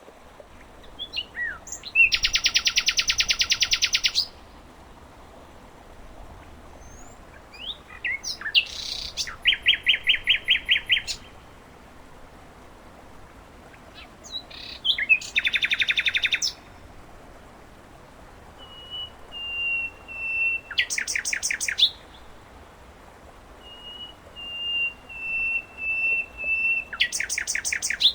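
Common nightingale singing in phrases of fast rattling trills separated by pauses of a few seconds. Later phrases open with a series of drawn-out whistled notes that grow louder, then break into a rapid trill. A faint steady rush of flowing water lies underneath.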